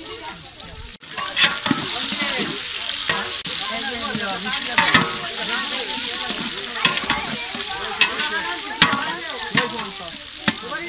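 Sliced onions sizzling and frying in hot oil in a large aluminium pot, stirred with a long metal ladle that scrapes through them and knocks against the pot a few times. The sizzle gets suddenly louder about a second in.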